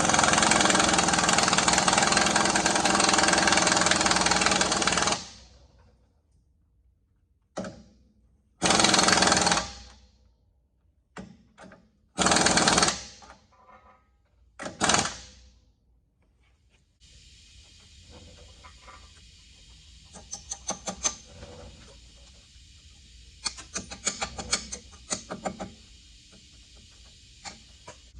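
Pneumatic air tool running in loud bursts: one long run of about five seconds, then three short bursts. After that come a fainter steady hiss and scattered clicking and knocking.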